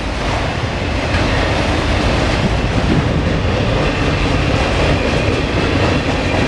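Norfolk Southern mixed freight train's cars rolling past, a steady rumble and rattle of steel wheels on the rails.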